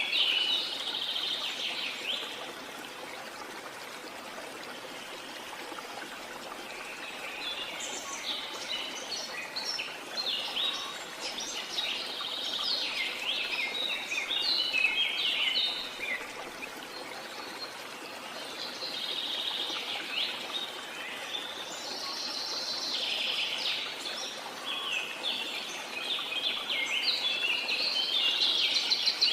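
Birds chirping and calling in repeated busy phrases over a steady rush of waterfall water.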